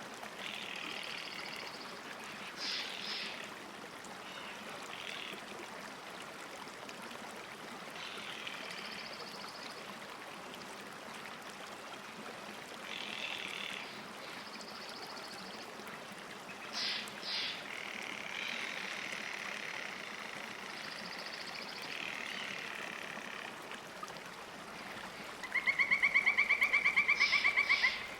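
Steady soft wash of lake water with repeated short trilled birdsong phrases. Near the end a louder, rapidly pulsing call lasts a couple of seconds.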